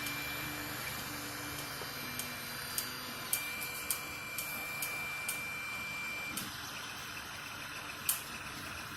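FDM 3D printer running a print: stepper motors whining in short notes that change pitch over a steady fan hum, with a higher whine held for about three seconds midway and sharp ticks scattered throughout.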